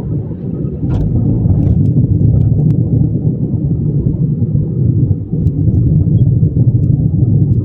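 Train moving along the track: a loud, steady low rumble with a few light clicks over it.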